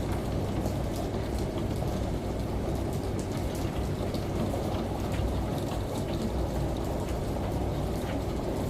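Steady rain with scattered drops ticking, layered over a low, even hum from the washing machine in the mix.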